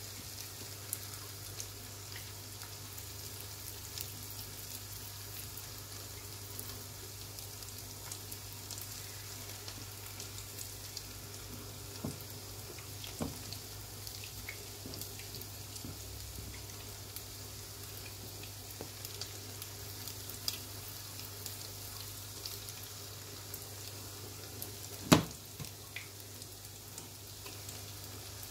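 Minced-beef balls frying in shallow oil in a pan: a steady sizzle with scattered small pops and crackles. One sharp knock stands out near the end.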